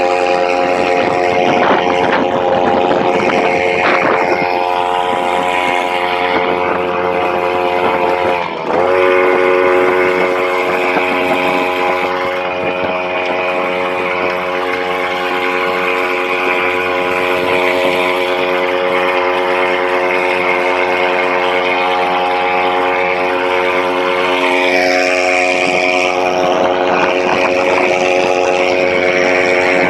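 Kentavr engine running steadily. About eight and a half seconds in, its speed dips briefly and wavers, then recovers.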